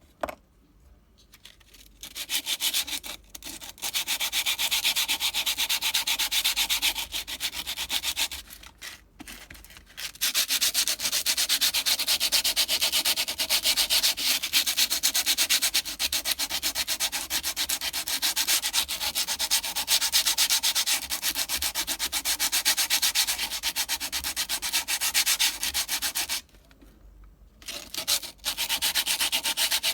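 A mountain-bike disc brake pad rubbed rapidly back and forth on coarse 80-grit sandpaper, a steady scratchy sanding sound that stops briefly twice. The pad is being ground down to remove the glazed, burnt oxide layer on its surface that caused the brake to squeal.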